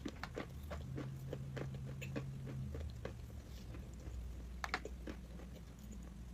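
Close-up chewing of crunchy chalk: a dense, irregular run of small crunches and clicks, with one sharper crunch about three-quarters of the way through.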